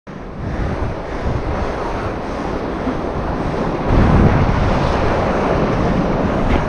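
Wind buffeting the microphone over ocean surf breaking on the shore, a loud rushing noise with a heavy low rumble that swells about four seconds in.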